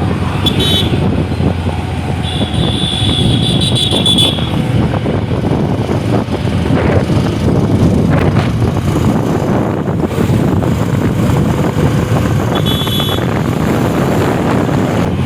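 Riding on a motorcycle: steady engine rumble and wind rushing over the microphone. Vehicle horn beeps sound briefly just after the start, longer about two to four seconds in, and again near the end.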